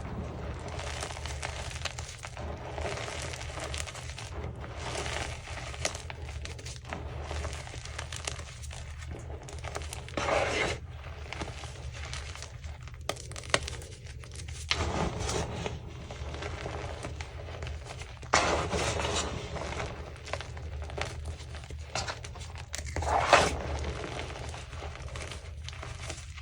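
Crunchy chunks of gym chalk being crushed and crumbled, a continuous gritty crunching with four louder squeezes, over a steady low hum.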